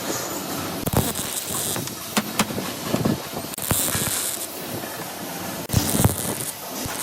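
Metalworking workshop noise: irregular knocks and clanks of metal, with two short bursts of high hiss partway through.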